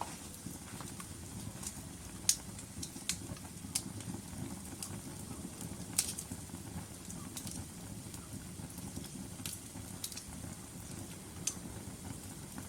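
Wood fire crackling: sharp, irregular pops and snaps over the steady low rumble of burning logs, with the loudest pops about two and six seconds in.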